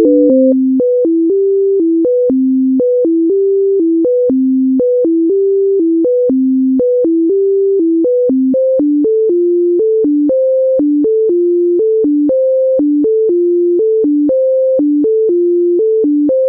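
A sequence of plain synthesized tones stepping up and down among a few pitches in the low-middle range, about two to three notes a second, with a small click at each note change: an auditory-illusion demonstration tone pattern.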